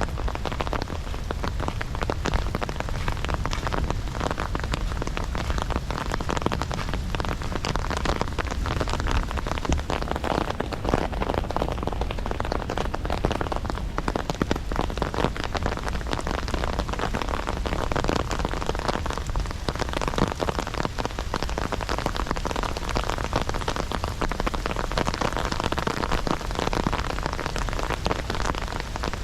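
Heavy rain falling steadily, a dense hiss thick with the patter of close drops striking surfaces.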